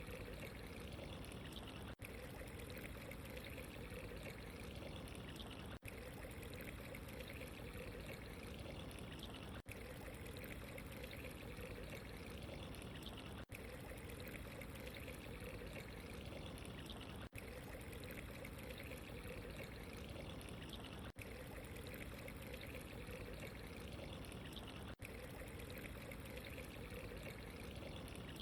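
Steady trickling, pouring water ambience, with a very brief dropout about every four seconds.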